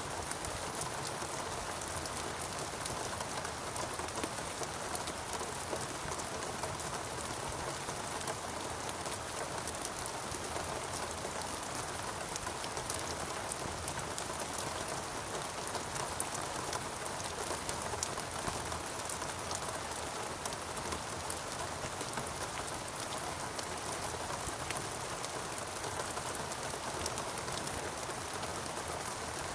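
Rain falling steadily in a rainforest: an even hiss sprinkled with many small drop ticks.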